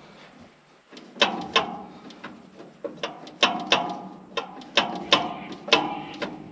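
Starter motor on a Fordson Power Major diesel tractor engaging in a string of about nine sharp metallic clunks, each ringing briefly, at an irregular pace, without turning the engine over. The battery lacks the power to crank the engine.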